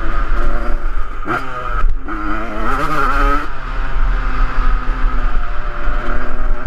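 Yamaha 125cc dirt bike engine running and revving, its pitch rising and falling with the throttle, with a quick rev about a second and a half in and a brief sharp clatter just after.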